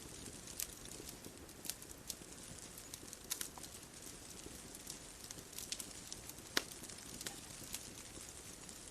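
Bonfire crackling: irregular sharp pops and snaps over a low steady hiss, the loudest pop about six and a half seconds in.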